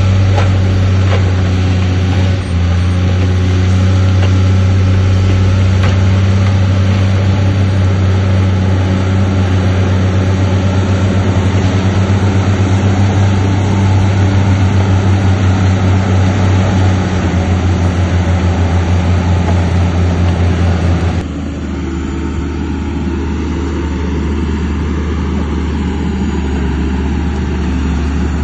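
Heavy diesel engine of earthmoving machinery running with a deep, steady note. About two-thirds of the way through it switches abruptly to a quieter, lower engine sound.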